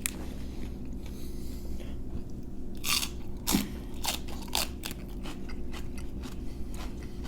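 Close-up crunching and chewing of a flaky baked samsa pastry, with several sharp crunches between about three and five seconds in. A steady low hum runs underneath.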